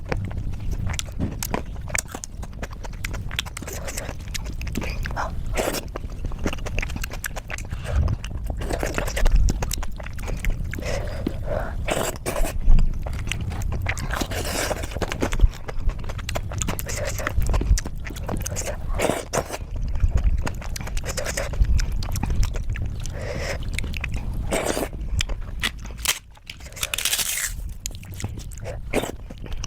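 A person eating khichdi: wet chewing and mouth smacks, with irregular clicks throughout.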